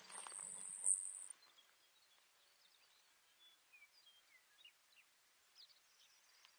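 Baird's sparrow song: a high, thin trill lasting just over a second at the start. Faint, short bird chirps follow, scattered over a quiet outdoor background.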